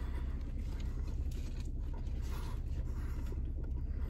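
Faint chewing of a bite of crispy chicken sandwich on a soft bun, with small handling sounds, over a steady low hum inside a car.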